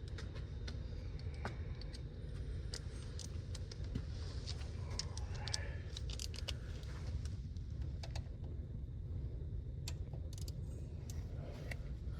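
Scattered light clicks and clinks of metal hand tools and parts being handled, over a steady low hum.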